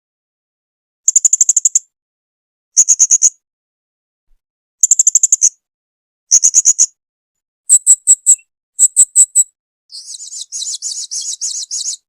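Blue-crowned hanging parrot (serindit) calling: four short bursts of rapid, high-pitched chirps with silent gaps, then two groups of a few separate sharp notes, and a denser, buzzier chatter near the end.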